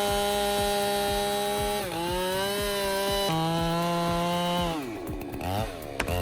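Chainsaw running at full throttle and cutting: its pitch dips about two seconds in and drops lower a little after three seconds as the chain takes load, then falls away as the throttle is released near five seconds, followed by a few short revs.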